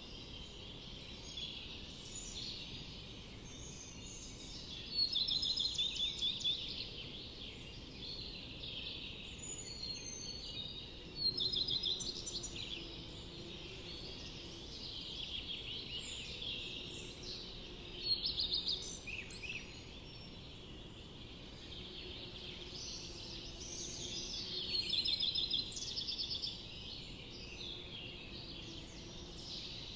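Several songbirds singing and calling, with rapid trilled phrases of quickly repeated notes; the loudest songs come in bursts about 5, 11, 18 and 25 seconds in.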